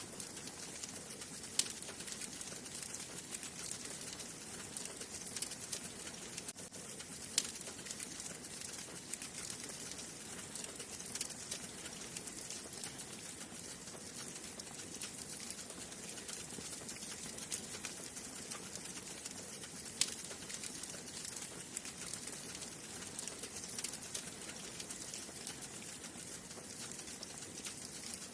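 Wood fire burning in a fireplace: a steady hiss with a constant scatter of small crackles, and a few sharper, louder pops from the burning wood.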